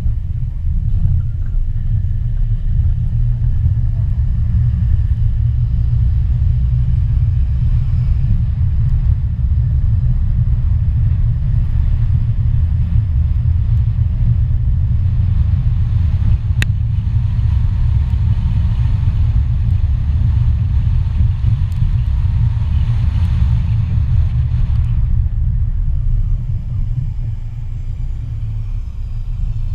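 Car driving on a road: a steady low rumble of road and wind noise. A fainter higher drone joins for about ten seconds midway, and a single sharp click comes about sixteen seconds in.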